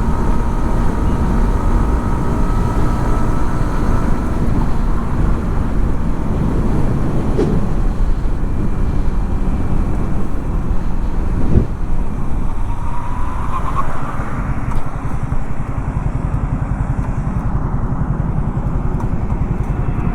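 Yamaha XSR 155's single-cylinder engine running steadily, a continuous rough low rumble. Two short knocks come through about seven and eleven seconds in.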